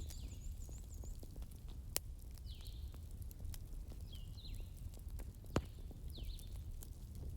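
Wood fire burning in a fireplace: a steady low rumble with scattered crackles and two sharper pops, about two seconds and five and a half seconds in. Short bird chirps sound every second or so in the background.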